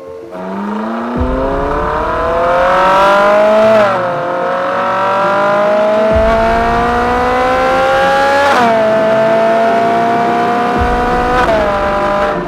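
Ferrari 458 Spider's naturally aspirated 4.5-litre V8 accelerating hard. Its pitch climbs steadily and drops sharply at upshifts: about four seconds in, about nine seconds in, and near the end.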